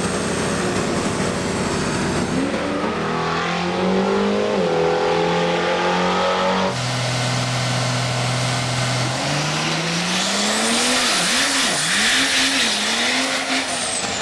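Race-built diesel truck engine revving and launching down the drag strip: the engine note climbs, breaks off, holds low, then climbs again and wavers up and down near the end under a rising rushing hiss.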